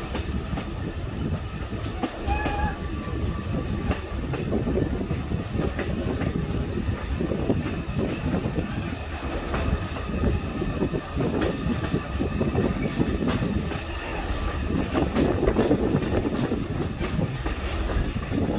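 Passenger train car rolling along the track: a steady low rumble with irregular clicks of the wheels over the rail joints.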